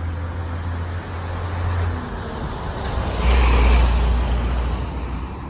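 Motor vehicle engine running with a steady low hum that drops in pitch about two seconds in, and a louder rush of noise about three seconds in.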